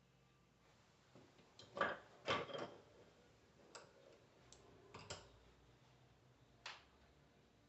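Scattered clinks and knocks of small metal parts being handled on a workbench, the loudest pair about two seconds in and a few lighter taps after.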